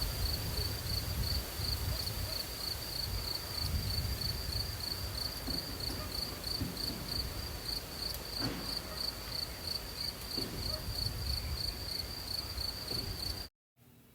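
A cricket chirping steadily, about four short high chirps a second, over a low rumble. It cuts off suddenly near the end.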